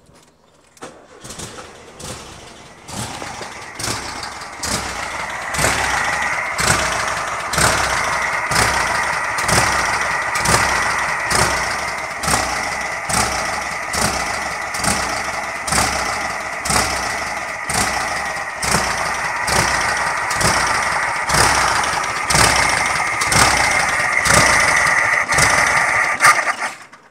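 1971 VW Super Beetle's air-cooled flat-four engine starting and then running rough, with a regular stumble in the beat about twice a second, until it is shut off suddenly near the end. It is running badly since a valve adjustment, and the owner does not know why.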